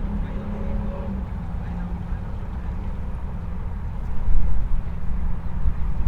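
Engine running with a steady low rumble, growing louder from about four seconds in.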